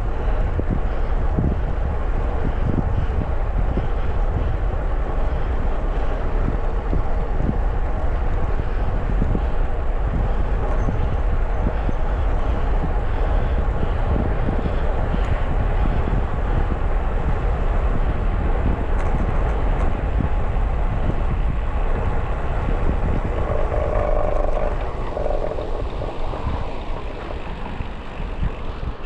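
Wind buffeting the microphone of an action camera riding on a moving bicycle: a steady low rumbling rush, with road-traffic noise mixed in. It eases somewhat near the end.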